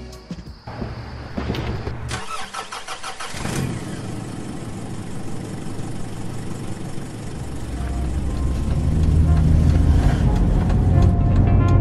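A car engine being started and then running, growing steadily louder over the last third as the car drives off.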